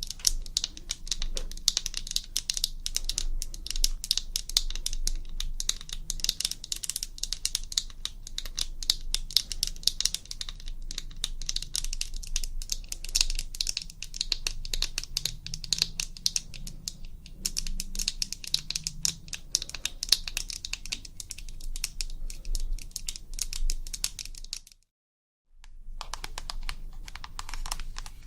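ASMR tapping: fast, dense light clicks, many a second, breaking off completely for under a second near the end, then resuming with a slightly fuller sound.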